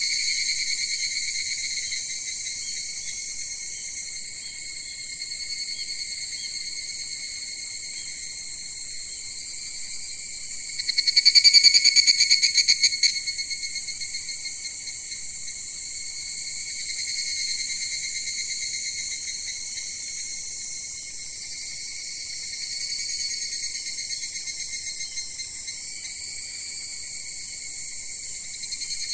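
A chorus of insects, crickets among them, chirping steadily in several high-pitched bands. About eleven seconds in, a louder, rapid pulsing trill stands out for about two seconds.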